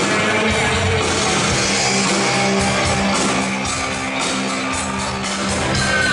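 Rock band playing live: distorted electric guitar over a drum kit with steady cymbal hits.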